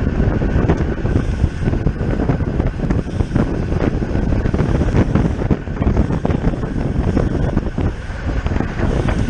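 Wind rushing over a bicycle-mounted camera's microphone as the bike rides at racing speed, a steady low rumble.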